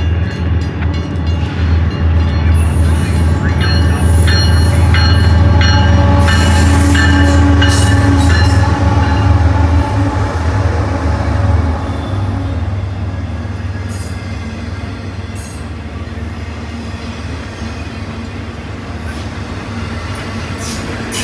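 A diesel-hauled train passing close by. A loud low drone builds over the first couple of seconds, holds, and eases off after about twelve seconds, while the cars keep rolling by with scattered sharp clicks from the wheels on the rails.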